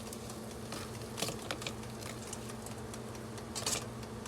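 Scattered light clicks and scrapes of a utensil against the air fryer basket, working at breaded chicken strips that have stuck to it because no oil was used, over a steady low hum. The strongest clicks come near the end.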